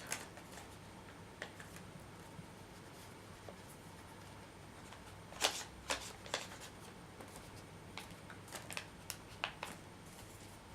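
Folded paper of an origami flapping bird being handled: scattered soft rustles and crisp paper crinkles, sharpest about five and a half seconds in and in a quick cluster near the end.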